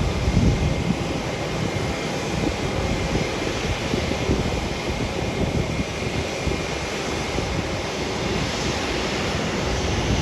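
Wind buffeting the microphone, with a steady rush of jet aircraft noise beneath.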